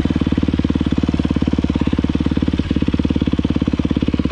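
Yamaha YZ250F dirt bike's four-stroke single-cylinder engine idling steadily in a fast, even putter, its clutch held in before pulling away.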